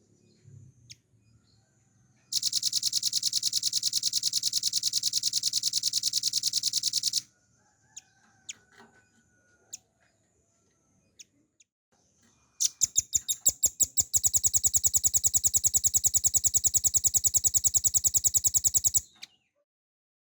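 Velvet-fronted nuthatch (rambatan paruh merah) singing two long, rapid trills of high repeated notes, each running several seconds with a pause between. The second begins with a few spaced notes that quickly close up into the fast trill.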